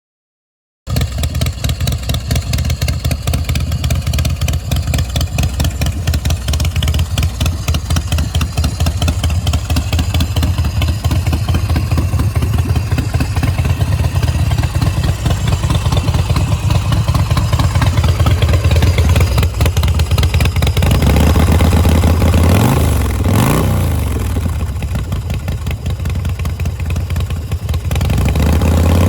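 117-cubic-inch S&S V-twin of a Swift bar chopper motorcycle idling with a fast, even pulse, then revved up and back down a couple of times near the end.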